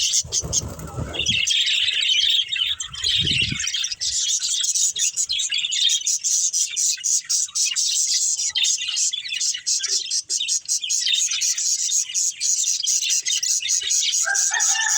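Budgerigars chirping and chattering in a fast, continuous high-pitched stream. Two short low rumbles come in the first four seconds, and a falling two-toned whistle near the end.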